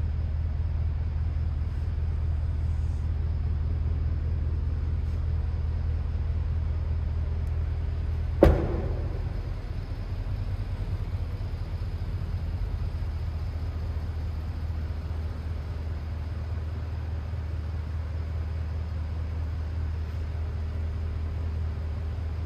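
Bentley Continental GT V8's 4.0-litre twin-turbo V8 idling with a steady low rumble. A single sharp thump comes about eight seconds in, and the rumble runs a little quieter after it.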